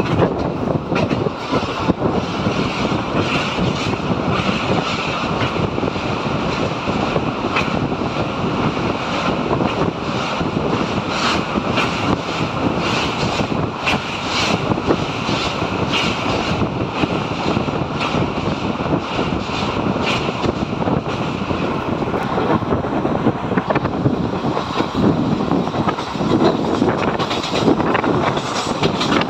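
Triveni Express passenger train running at speed, heard from an open coach window: wind rushing over the microphone over a steady rumble of wheels on the rails. A run of sharp clacks comes from the wheels about halfway through.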